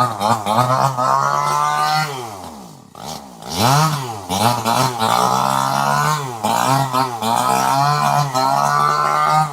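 Two-stroke chainsaw engine revved up and down repeatedly, its pitch rising and falling every second or so. About two seconds in it drops back toward idle and goes quieter for a moment, then revs up again.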